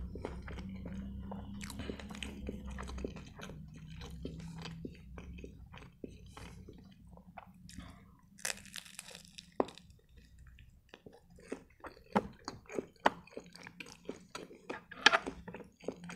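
Close-miked chewing and biting of a turkey shawarma wrap. There is a crackly bite into the wrap about eight seconds in, then a run of sharp wet mouth clicks while chewing near the end.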